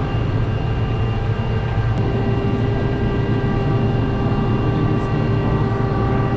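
Farm tractor engine running steadily under heavy load while pulling a plow through the ground. It is a loud, even drone with a whine whose pitch shifts slightly about two seconds in.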